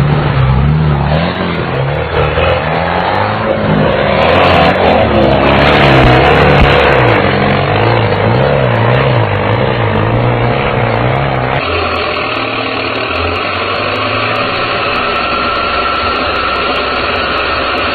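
Tractor engine revving up and down under load, its pitch rising and falling again and again, with a rushing noise from about four to seven seconds in. Shortly before the end it changes abruptly to a steadier engine drone.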